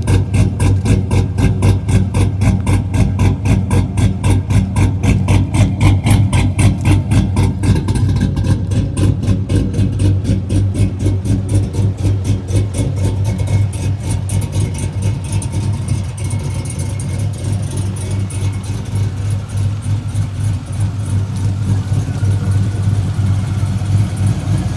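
LS V8 in an Infiniti G35 running at a steady idle through a custom exhaust, a deep even rumble. A rapid regular pulse is plain in the first half and smooths out later, with the level dropping slightly.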